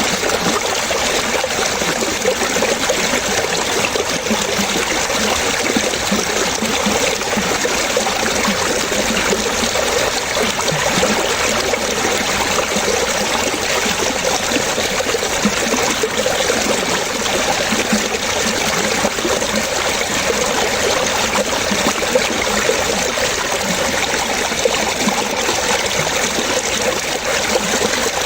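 Running water splashing steadily, an unbroken burble with no pauses.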